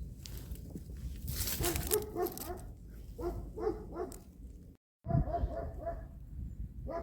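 A dog whining and yipping in short runs of high notes, over a low rumble; the sound drops out completely for a moment a little before five seconds in.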